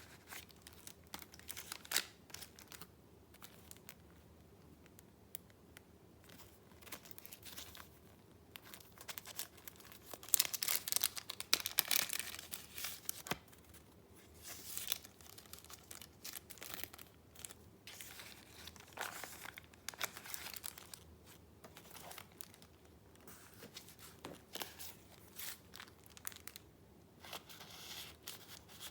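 Paper being handled: sheets and paper pieces rustling and crinkling in scattered bursts with small clicks, with a louder stretch of rustling about ten seconds in.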